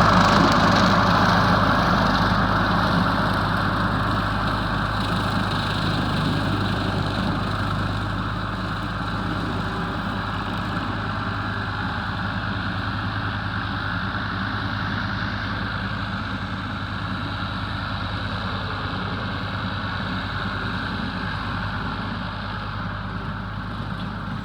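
Ford 4000 tractor's three-cylinder diesel engine running, getting quieter over the first eight seconds or so and then settling to a steady idle.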